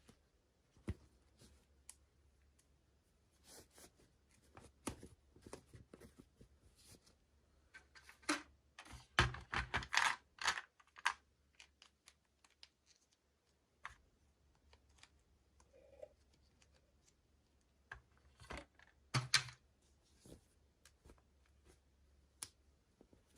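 Hands handling and opening plastic toy packaging: scattered small clicks and crinkles, with a louder stretch of rustling about nine to eleven seconds in and another short one near nineteen seconds.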